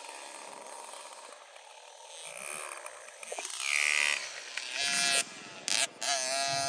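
Motocross dirt bike engine revving, the throttle opening and closing so the pitch rises and falls, getting loud about halfway through and cutting off briefly a few times between revs.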